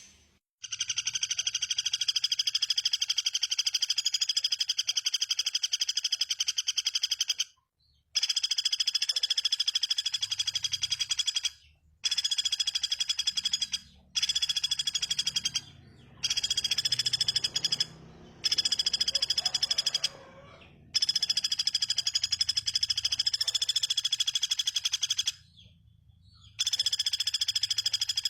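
A high, buzzing animal trill of very rapid pulses at a steady pitch, repeated in runs of two to seven seconds with short breaks between them. It is a bird-mastering recording.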